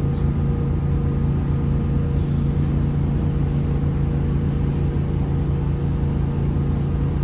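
Steady machine hum with a strong low tone and a fainter higher tone, unchanging throughout.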